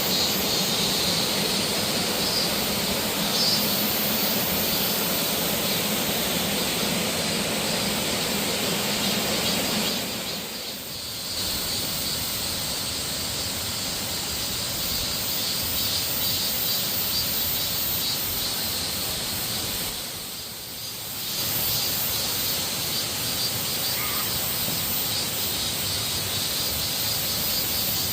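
Steady rush of falling water from a waterfall, with a short dip about a third of the way through and again about two-thirds through.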